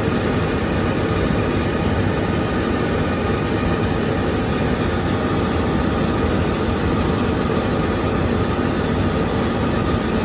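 Large harvest machine running: a steady engine and machinery drone with faint steady hum tones and no change in pace.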